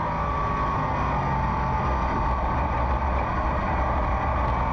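SK Modified race car's engine running at speed on track, heard from inside the car as a steady, unbroken engine drone.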